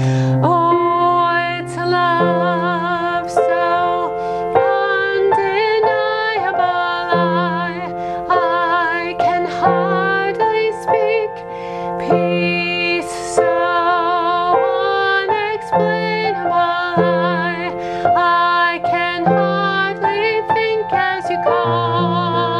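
Music: a singing voice with strong vibrato over held keyboard notes, a slow hymn-like piece.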